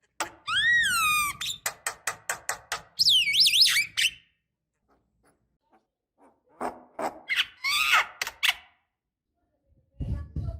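Javan myna singing: an arched call, then a quick run of sharp clicks and high gliding whistles. After a pause of about two seconds comes another burst of clicks and whistles, and a further burst starts near the end.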